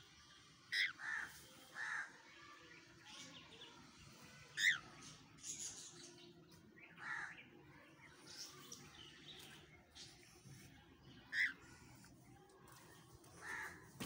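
Short bird calls repeated at irregular intervals, about nine in all, with a few seconds of quiet between some of them.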